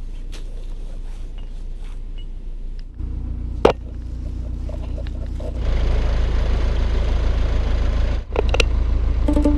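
Narrowboat's diesel engine running with a steady low hum that grows louder in two steps, about three seconds in and again a couple of seconds later, with a few sharp knocks around it.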